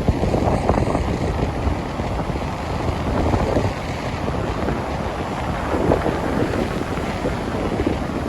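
Strong wind buffeting the microphone in irregular gusts, over the wash of ocean surf.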